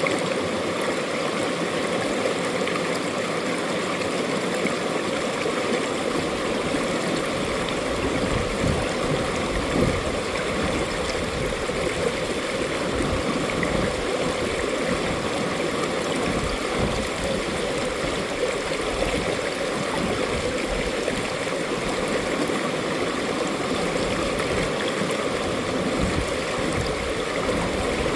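Mountain valley stream rushing and gurgling over rocks, a steady unbroken flow.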